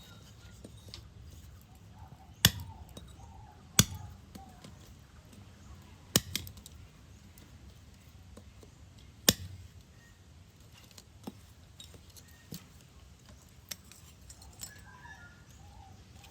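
Sharp metal clinks and knocks from steel parts being handled and set down, four loud ones a few seconds apart and a few lighter taps afterwards.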